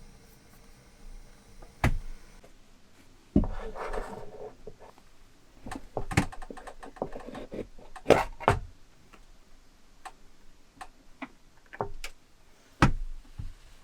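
Scattered knocks, clicks and a brief rustle of things being handled in a small enclosed space, with louder knocks about two, three and a half, eight and thirteen seconds in.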